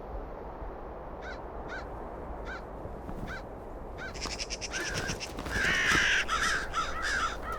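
Corvids cawing: single caws spaced out at first, then from about four seconds in several birds calling together, louder and overlapping, over a steady low background noise.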